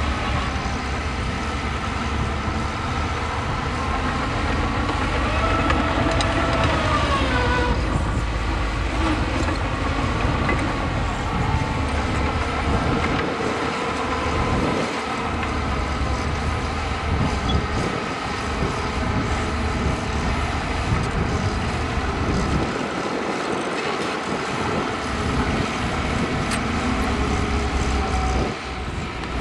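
Heavy diesel construction machinery running under load, with a steady deep rumble. Its engine pitch drops about six to eight seconds in.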